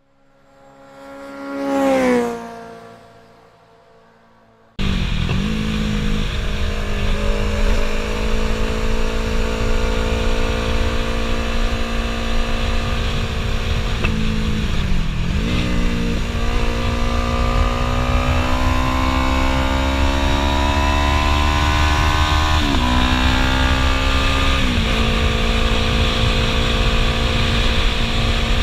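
Onboard sound of a Yamaha YZF-R3's parallel-twin engine through a Two Brothers Racing S1R full-system exhaust, ridden on winding roads. Its pitch climbs and drops with the throttle, with a few quick dips, over steady wind and road rush. Before that, a vehicle sweeps past, its pitch falling as it goes by, and then it starts abruptly about five seconds in.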